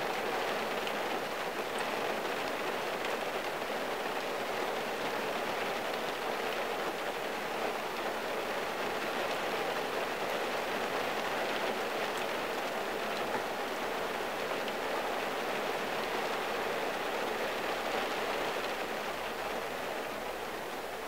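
Steady rain falling on a car, heard from inside the cabin as an even, unbroken hiss of drops on the windshield.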